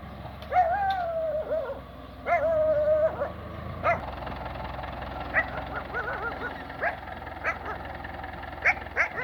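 A dog whining and yelping: two drawn-out whines in the first few seconds, then a string of short high yelps. A steady low engine hum runs underneath.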